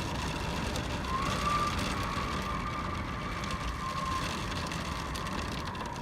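Heavy downpour during a thunderstorm, rain pelting steadily against window glass. A thin whistle rises and falls behind it every couple of seconds.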